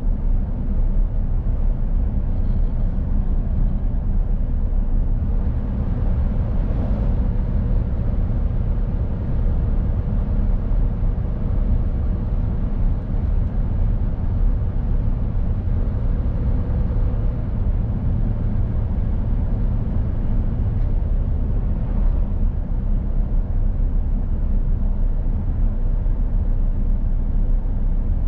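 Mercedes Actros lorry on the move: a steady low engine and road rumble.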